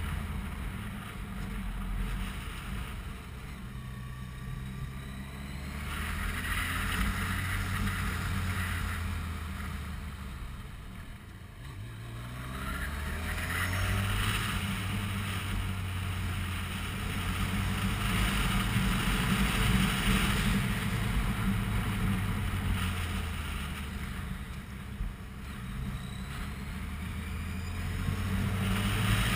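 Yamaha motorcycle engine running under way, its pitch dropping about eleven seconds in and climbing again as the bike slows and speeds up, with wind rushing over the microphone.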